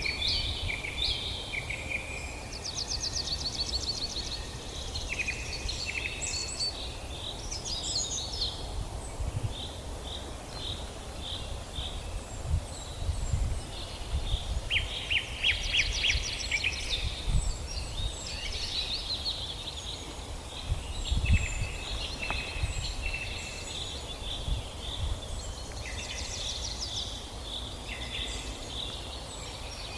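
Several songbirds singing and chirping at once in a forest chorus, with fast trills, repeated chirps and short whistles overlapping throughout. A low rumble with a few soft thumps runs underneath.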